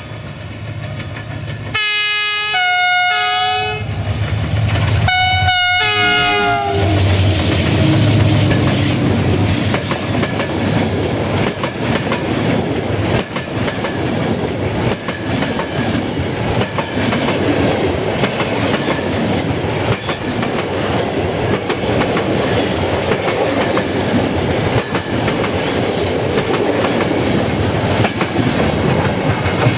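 A diesel train sounds two two-note horn blasts, the second stepping down in pitch at its end. It then passes close by for the rest of the stretch, its engine running with a low rumble and its wheels clicking over the rail joints.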